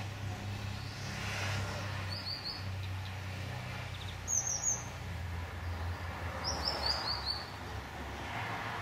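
A bird chirping in three quick runs of short falling high notes. A low steady hum and swells of faint rushing noise run underneath.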